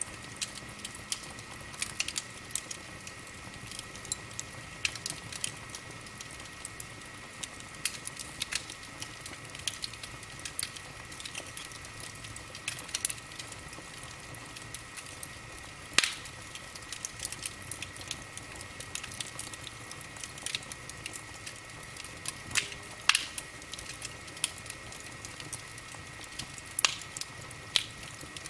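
Wood fire crackling in a fireplace: a continual run of irregular small pops and snaps, with a few sharper, louder cracks, one about halfway through.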